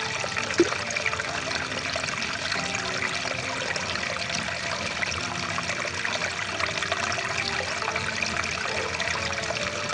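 A stream of water rushing and gurgling steadily, with one brief louder plop about half a second in.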